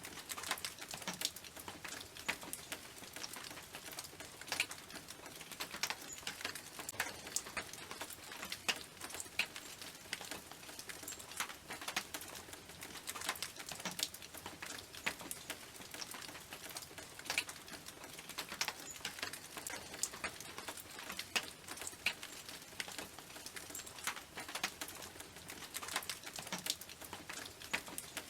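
Rain falling on a tin roof: a steady patter of many separate sharp drop-hits on metal, irregular, several a second, over a light hiss.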